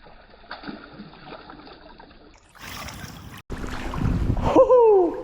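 Creek water rushing with wind buffeting the microphone, louder and deeper in the last couple of seconds, with a short falling vocal exclamation near the end.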